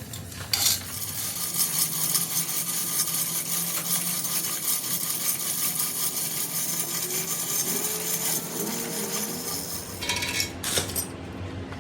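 Metal being worked with a tool: a dense, harsh scraping and clattering of metal on metal that starts about half a second in and cuts off suddenly near the end.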